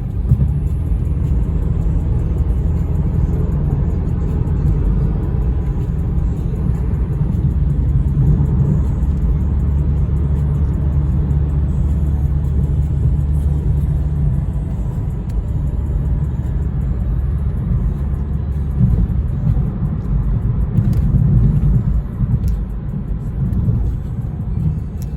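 Car engine and tyre noise heard from inside the cabin while driving, a steady low drone with small rises and falls.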